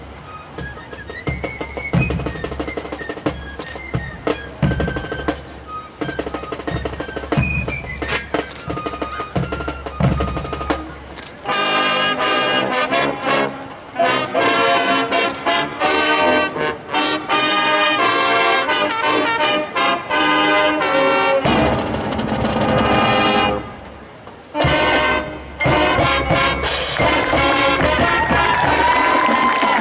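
High school marching band playing: drum hits under a light high melody at first, then the full brass section comes in loud about eleven seconds in, with a short drop near three quarters of the way through.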